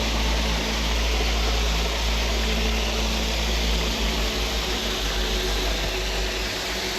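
Waterfall pouring steadily, a loud even rush of water, with a low rumble underneath that wavers over the last few seconds.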